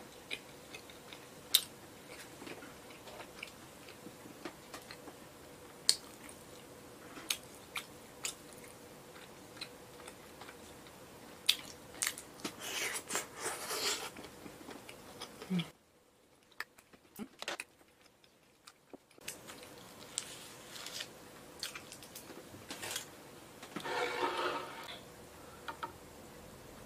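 Close-up chewing of a soft bread roll with a sausage inside: wet mouth sounds and small scattered clicks. The sound drops out completely for about three seconds a little past halfway, and near the end there is a short rustling handling sound as tongs pick through the food.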